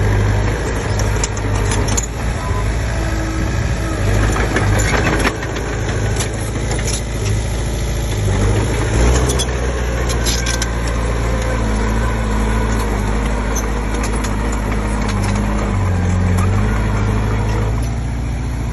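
Komatsu D20P bulldozer's diesel engine running steadily, its pitch shifting a few times, with a few sharp knocks and clanks.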